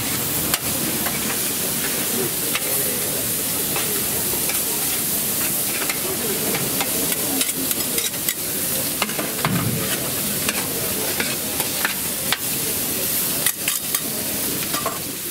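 Tartiflette sizzling in a pan as it is stirred, with scattered clicks and scrapes of the utensil against the pan.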